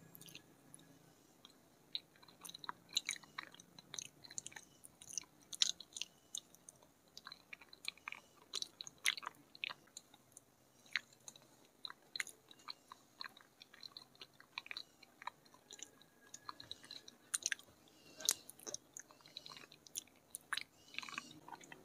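Close-up mouth sounds of chewing a soft chocolate milk pudding: many short, wet clicks and smacks at an irregular pace.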